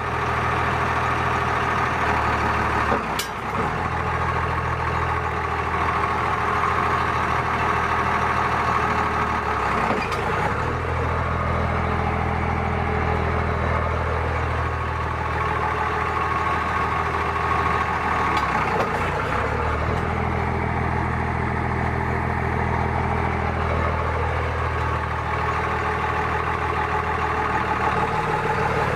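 Cummins diesel engine idling steadily with a clicking noise whose cause is unknown. A few sharper clicks stand out at intervals.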